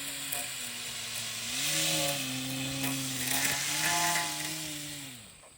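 RC airplane motor and propeller whining in flight, the pitch rising and falling as the throttle changes, over a hiss of prop noise. It fades out near the end.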